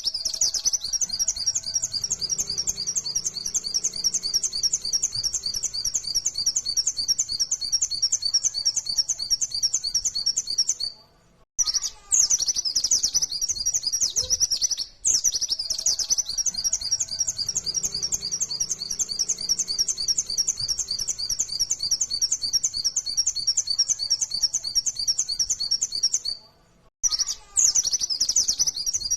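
White-eye (pleci) singing its rapid 'nembak' song: long runs of fast, high chirping notes. The song breaks off briefly about eleven seconds in and again near the end.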